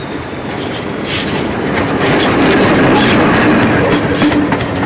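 Diesel train passing, its engine running with a steady low note and its wheels clicking over the rail joints, growing louder about two seconds in.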